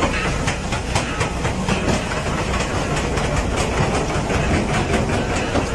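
A train rolling past with a steady rumble, its wheels clicking irregularly over the rails.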